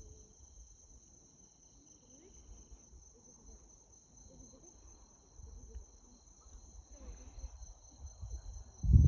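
Steady high-pitched chirring of crickets. Faint voices murmur underneath, and a low thump comes just before the end.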